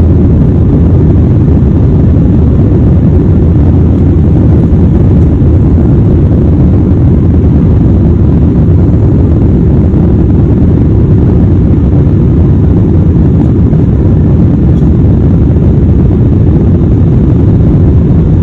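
Steady low rumble of jet engines and airflow inside the cabin of an Airbus airliner in flight, unchanging throughout.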